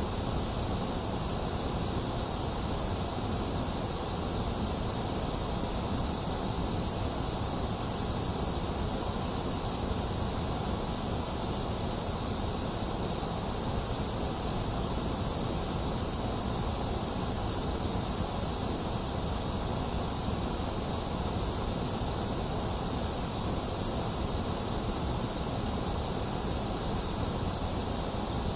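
Box fan running steadily, mixed with falling rain, without thunder: an even, unchanging hiss with a low rumble underneath.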